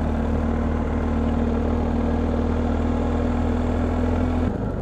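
Motorcycle's twin-cylinder engine running steadily at a constant speed, with no revving. The sound changes abruptly about four and a half seconds in.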